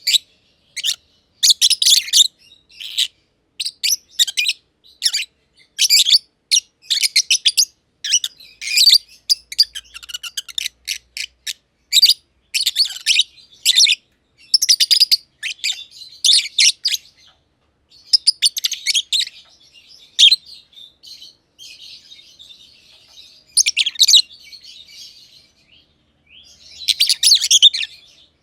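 Masked lovebirds (green and green-pied personata) chirping in rapid, high-pitched bursts, easing into softer chatter for a few seconds about three-quarters of the way through before loud chirping resumes.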